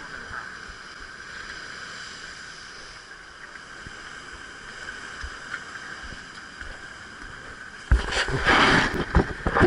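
Fishing ferry boat's engine running steadily with a constant drone. About eight seconds in, a sudden much louder rushing noise comes in over it.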